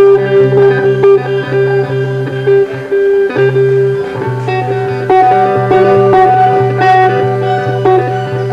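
Blues-style guitar music over a steady held bass line, with sustained notes and plucked guitar notes above.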